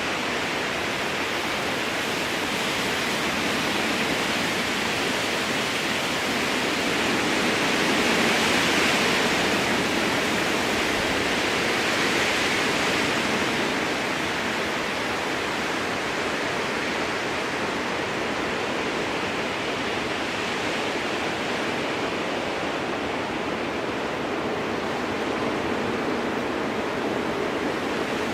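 Strong wind rushing steadily through a spruce forest, swelling in a gust about a third of the way in and then easing back.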